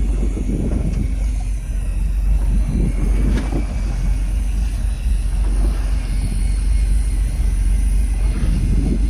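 Fishing boat's engine running steadily under way, a constant low drone with gusty rushing noise over it.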